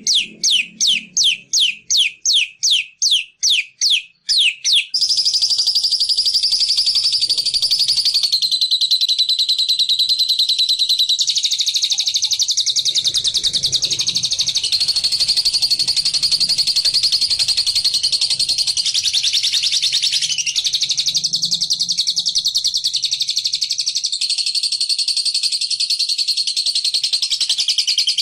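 Lovebird calling: a quick series of sharp chirps, about three a second, then, about five seconds in, a long unbroken rapid chatter (the 'ngekek' song) that runs on with small shifts in pitch.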